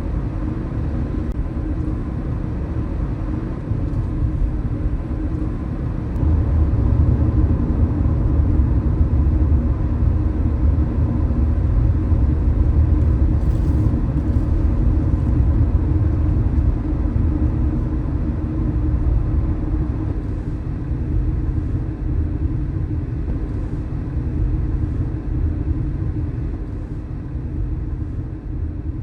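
Car driving on city streets: a steady low rumble of road and engine noise that grows louder about six seconds in and eases off near the end.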